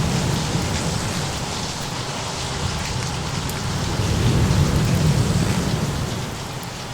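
Steady rain with a low thunder rumble that swells about four seconds in and fades again near the end.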